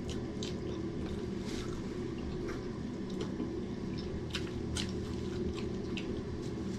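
People chewing and lip-smacking as they eat grilled chicken and rice with their hands: irregular wet mouth clicks and squishy smacks over a steady low hum.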